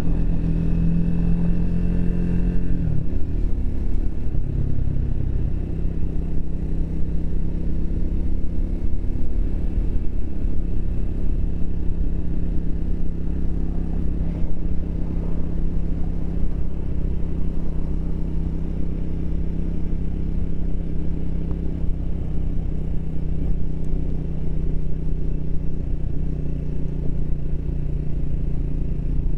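Triumph Speed 400's single-cylinder engine running while riding, its note dropping in pitch about three seconds in and then holding steady at cruise.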